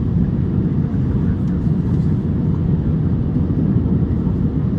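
Cabin noise of an Airbus A350-900 taxiing, heard from inside the cabin: a steady low rumble from its Rolls-Royce Trent XWB engines at taxi power.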